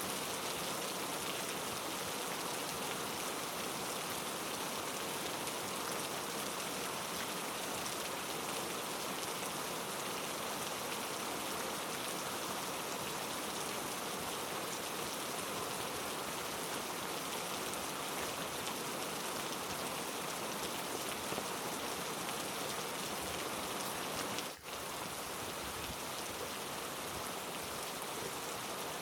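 Heavy rain falling steadily, an even hiss with a brief momentary dip near the end.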